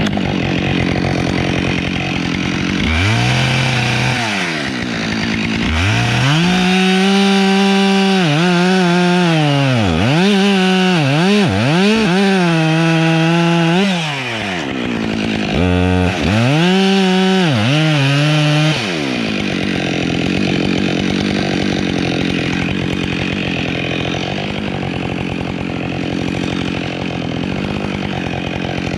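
Husqvarna 572XP two-stroke chainsaw running at full throttle and cutting, its pitch repeatedly sagging under load and dropping back toward idle between cuts. For roughly the last third, a steady loud rushing noise without a clear engine note.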